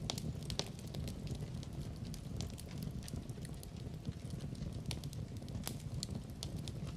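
Wood fire burning in a fireplace, a steady low rumble with irregular sharp crackles and pops.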